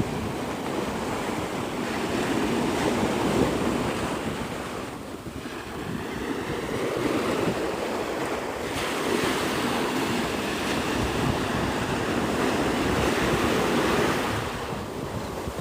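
Surf washing onto the beach, swelling and easing, with wind rumbling on the microphone.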